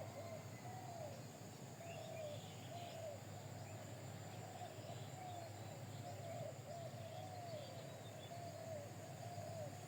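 Birds calling: a steady run of short, low, arching notes, about one or two a second, with a few faint higher chirps, over a constant low hum.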